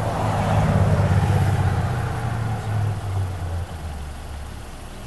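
Road vehicle's engine running close by, with a steady low hum that swells to its loudest about a second in, then fades and drops lower in pitch.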